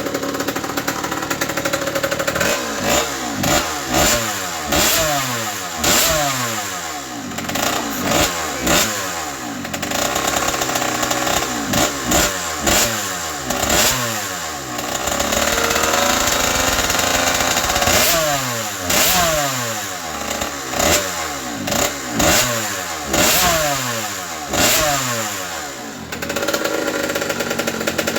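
Freshly rebuilt Honda CR80R's 80 cc two-stroke single-cylinder engine running and being blipped: the revs jump up and fall back again and again, about once a second, with a steady held rev for a few seconds in the middle.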